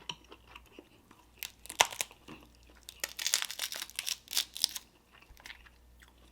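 Dungeness crab shell cracking and crackling as it is broken apart close to the microphone, with chewing. There is a sharp crack about two seconds in, then a dense run of crackles for about a second and a half.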